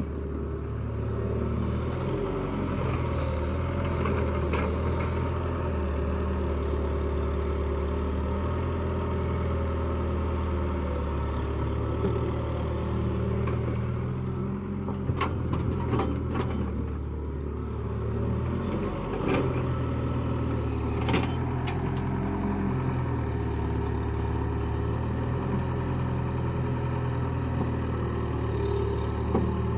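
Tractor diesel engine running steadily under load, with a few sharp knocks about halfway through.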